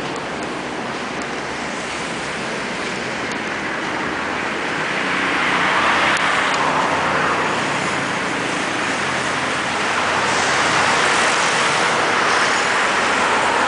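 Road traffic noise, a steady rush that swells as vehicles pass, about five seconds in and again about ten seconds in.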